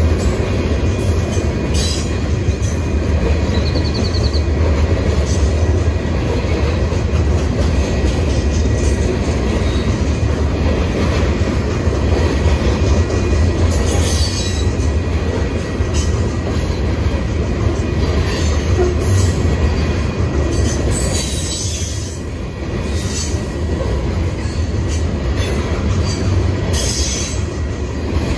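Loaded covered hopper cars of a freight train rolling past: a steady low rumble of steel wheels on rail, with a faint thin wheel squeal and scattered clacks as wheels cross rail joints.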